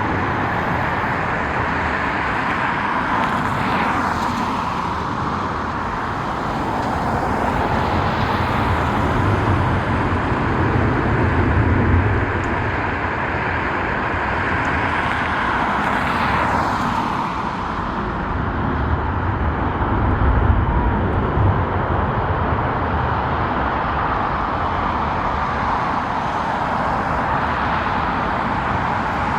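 Jet airliner engines running: a steady rushing noise, with a deeper rumble swelling about ten seconds in and again about twenty seconds in.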